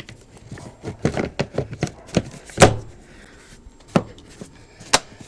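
Plastic cabin-filter housing cover pieces being hooked and pressed into place: a run of irregular sharp plastic clicks and knocks, the loudest about two and a half seconds in and again near the end.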